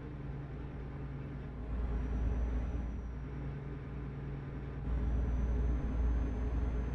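Truck engine and road noise heard from inside the cab: a steady low rumble that grows louder about two seconds in and again about five seconds in, each time with a faint high whine.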